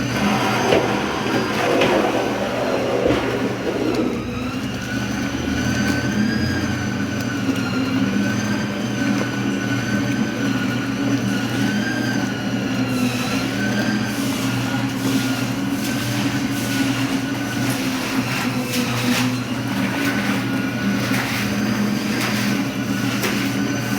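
Top-loading washing machine and tanquinho agitator washer running their wash agitation together: a steady motor hum with higher tones that waver up and down every couple of seconds. Irregular swishing strokes join from about halfway.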